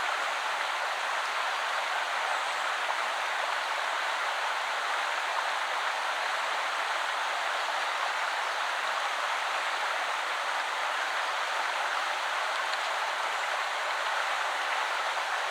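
Shallow woodland river flowing steadily over stones, a constant rushing babble of water.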